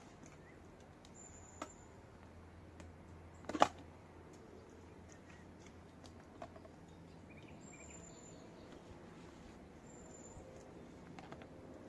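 Quiet outdoor ambience with a faint low hum and a few short, high bird chirps. There are some small clicks, and a single sharp knock about three and a half seconds in is the loudest sound.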